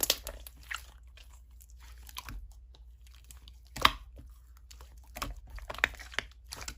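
Slime being pressed and poked by hand, giving scattered crunchy crackles and small squishes, the loudest crackle about four seconds in.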